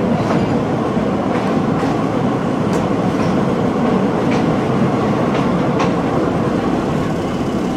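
Passenger train running along the line, heard from an open carriage window: a steady loud rumble of wheels on rails, with a few sharp, unevenly spaced clacks from the wheels passing rail joints.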